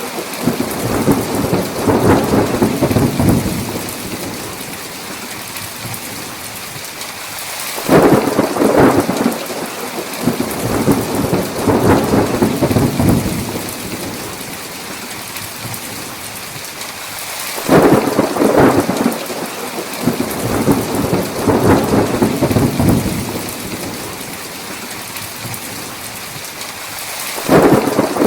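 Steady heavy rain with rolling thunder. A rumble fades in the first few seconds, then three new peals break in about ten seconds apart, each starting sharply and rolling on for several seconds.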